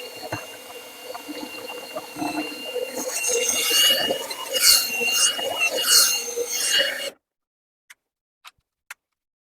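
Dryer vent cleaning brush and rods scraping and squealing inside the vent duct, in repeated surges over a thin steady whine. The sound cuts off abruptly about seven seconds in, leaving only a few faint clicks.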